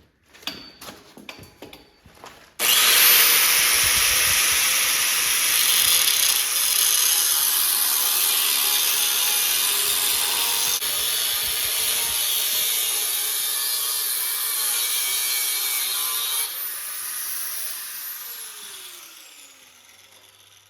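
A few handling knocks, then an angle grinder with a cutoff wheel spins up and cuts steadily through the transmission mount for about fourteen seconds. After that the wheel winds down with a falling whine.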